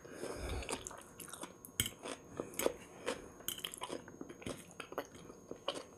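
Close-miked chewing of a mouthful of fresh cucumber and tomato salad: a string of short, quiet crunches and wet mouth clicks.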